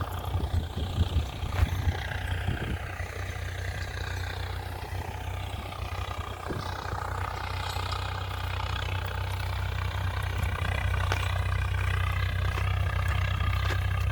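Swaraj 855 FE tractor's diesel engine running steadily under load, with a whine that falls in pitch and then rises again, growing louder toward the end.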